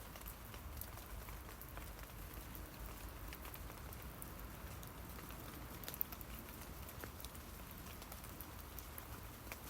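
Rain falling on tree leaves: a steady faint patter of many small drop ticks, with one louder drop hit about six seconds in.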